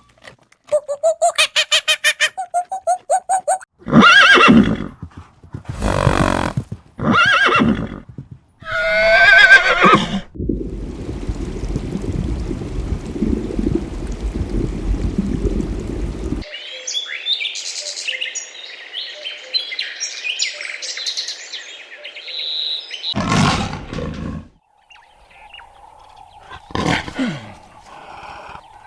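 A string of different animal calls, one after another: several loud calls of about a second each, then a low rough stretch of about six seconds and a stretch of high, quick calls, with more loud calls near the end.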